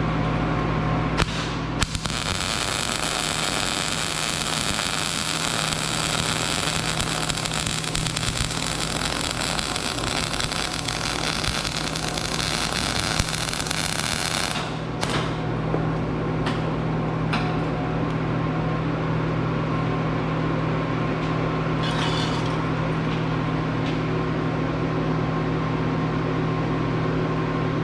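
Electric arc welding: a steady hiss from the arc starts about two seconds in and stops after about thirteen seconds. A few short clicks and a brief hiss follow, over a steady low hum.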